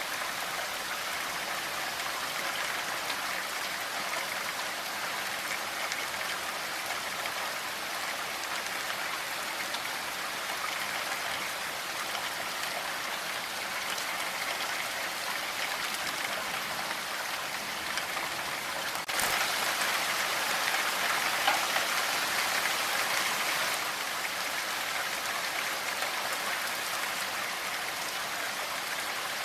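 Steady rain falling, an even hiss. About two-thirds through it turns suddenly louder for about five seconds, then settles back.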